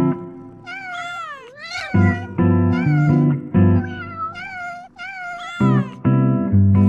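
A domestic cat meowing about six times in quick succession, drawn-out meows that slide up and down in pitch, over music with steady chords.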